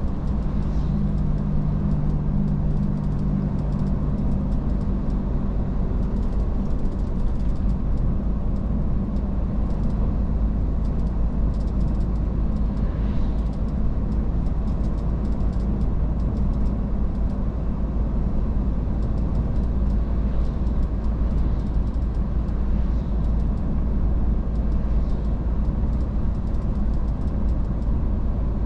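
Iveco S-Way truck driving: a steady deep rumble of engine and road noise, with the engine's hum clearest in the first few seconds.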